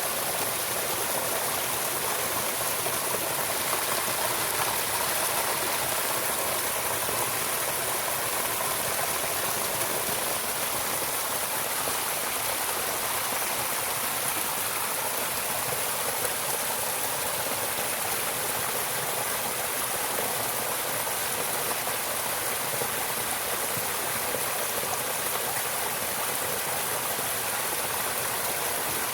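Running water, a steady unbroken rush with a bright hiss, like a flowing stream.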